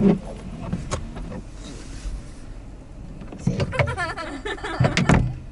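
Car windshield wipers running across snowy glass: a motor hum with knocks as the blades move, a short wavering squeal of rubber on the glass about four seconds in, and thumps near the end. They are giving a poor, streaky wipe.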